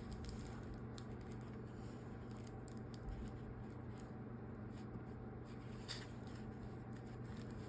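Faint rustling and small clicks of hand-sewing as a thread is pulled tight and knotted off, over a low steady hum.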